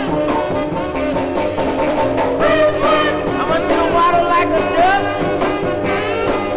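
Mid-1960s R&B dance record played from a vinyl single: full band music with a bending lead melody that is loudest in the middle.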